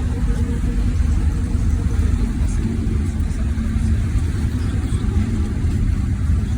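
NefAZ 5299 city bus heard from inside the cabin: a steady low rumble of the engine and running gear with a faint hum over it.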